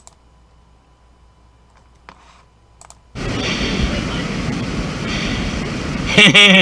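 Quiet room tone with a couple of faint clicks while the video is skipped ahead, then about three seconds in a loud, steady rushing noise cuts in from the outdoor hiking footage, with a man's voice briefly near the end.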